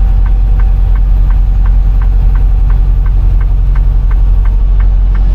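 Inside a semi-truck's cab on the move: a steady low engine and road rumble, with an even ticking about three times a second from the turn signal as the truck takes the exit.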